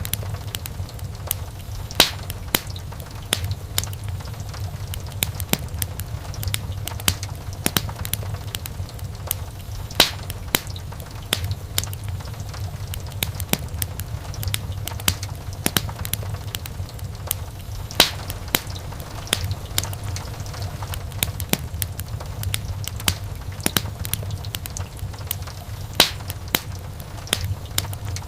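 Wood fire crackling in a fireplace: constant small crackles over a steady low rumble, with a sharper pop about every eight seconds.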